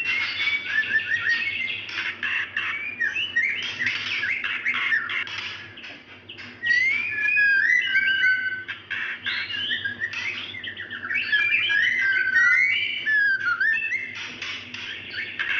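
Female white-rumped shama calling to a male: a rapid stream of whistled notes, chirps and short rising and falling glides, with a brief lull about six seconds in.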